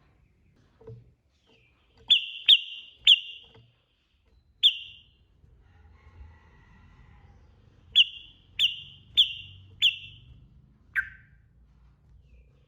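Sooty-headed bulbul (trucukan) calling in short, sharp whistled notes: a run of three, a single note, then four evenly spaced about half a second apart, and one lower note near the end.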